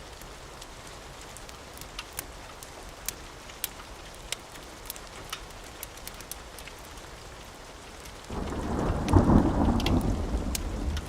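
Steady rain falling, with scattered sharp crackles; about eight seconds in, a loud peal of thunder breaks in suddenly and rolls on as a low rumble.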